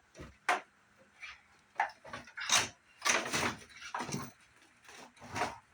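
Plastic CRT monitor housing knocked and scraped while being pulled apart: a string of short clunks and rubs, the loudest in the middle.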